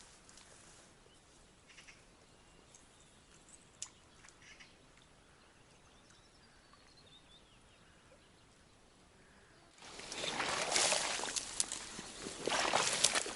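Water sloshing and splashing in uneven surges, starting suddenly about ten seconds in, after a stretch of quiet with a few faint clicks.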